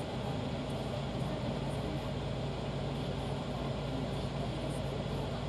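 Abarth 595's 1.4-litre turbocharged four-cylinder idling steadily with the car stopped, heard from inside the cabin as a constant low hum.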